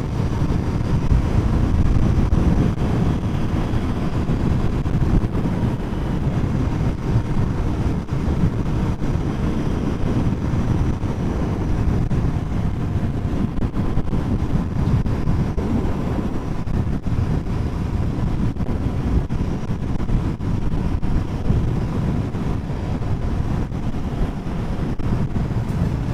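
Wind rushing over the microphone with the steady drone of a Royal Enfield Continental GT 650's parallel-twin engine cruising at speed.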